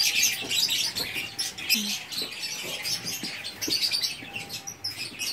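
Small birds chirping busily, many quick high chirps overlapping without a break.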